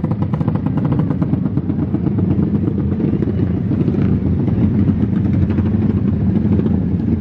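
Motorcycle engine running at a steady pace, its exhaust pulses fast and even.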